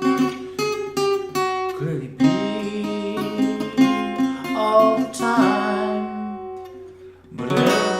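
Acoustic guitar strummed in chords in an instrumental gap between sung lines. The chords are struck several times, die away to a brief lull about seven seconds in, then a fresh strum comes in.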